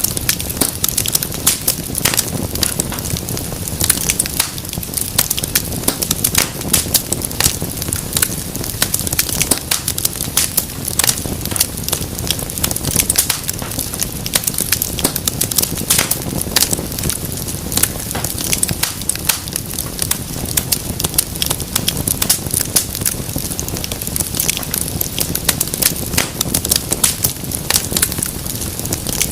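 Wood fire in a fireplace burning steadily, with a constant low flame rumble and dense, irregular sharp crackles and pops.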